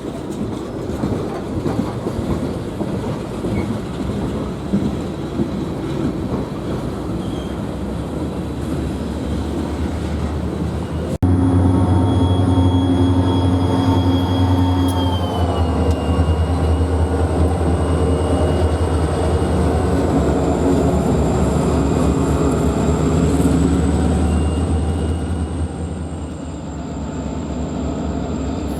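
Freight train shoving its cars, the cars rolling and rattling over the track. About eleven seconds in, the sound cuts to a diesel locomotive running close by, with a steady engine drone and thin high whines that step down in pitch.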